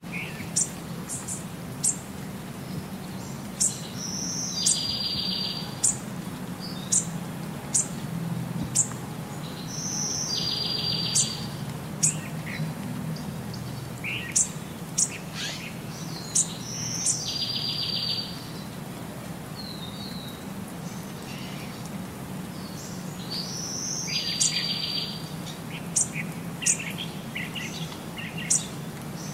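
Bird chirps: short high chirps about once a second, and a buzzy trill that comes back four times at even spacing of about six and a half seconds, over a steady low hum.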